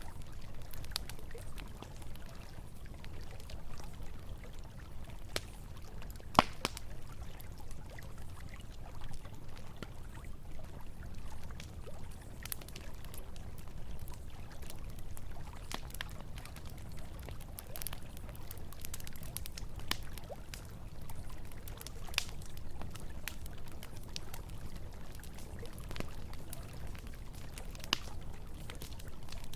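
Campfire crackling with scattered sharp pops, one louder snap about six seconds in, over steadily running river water.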